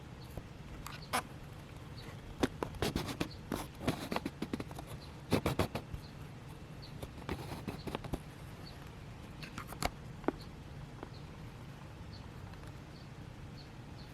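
Small birds chirping, faint short high chirps repeating about once a second, with a flurry of sharp clicks and taps through the first ten seconds.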